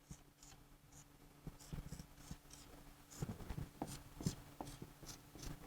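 Faint handwriting: short scratching and tapping strokes, sparse at first and coming thicker in the second half, over a low steady electrical hum.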